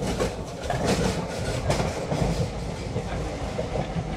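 Passenger train running on the track, a steady low rumble with wheels clattering over the rail joints, the clicks thickest about a second to two seconds in.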